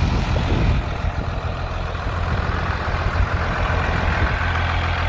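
12-valve Cummins turbo-diesel inline-six idling steadily.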